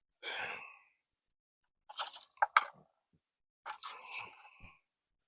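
Engine oil dipstick being pulled out, wiped with a rag and slid back into its tube: short scraping, rustling strokes, with two sharp clicks about two and a half seconds in.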